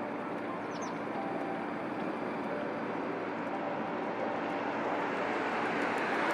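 A departing fishing boat's engine running steadily with a faint hum, growing gradually louder as it comes nearer. There is a short high chirp about a second in.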